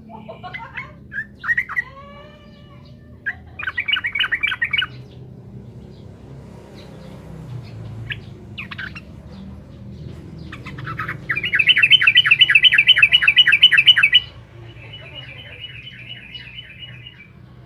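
Sooty-headed bulbul (trucukan) singing in lively bursts: a few gliding calls at first, then runs of rapidly repeated chattering notes, the longest and loudest about eleven seconds in, followed straight away by a softer run. A low steady hum lies underneath.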